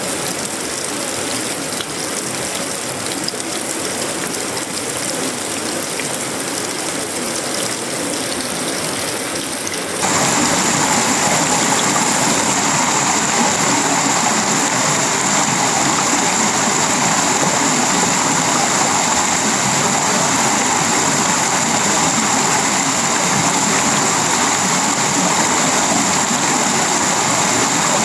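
Tropical rain falling on sheet-metal roofing, wood and leaves, a steady hiss with a fine patter of drops. About ten seconds in it suddenly gets louder and a steady high-pitched tone joins in.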